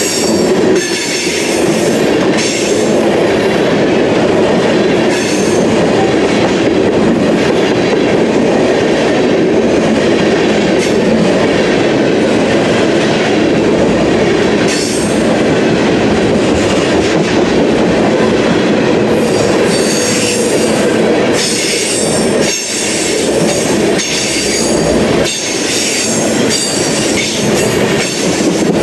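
Empty ethanol tank cars of a freight train rolling past close by: a steady loud rumble and clatter of steel wheels on the rails. An intermittent high-pitched squeal from the wheels comes and goes, most often in the last third.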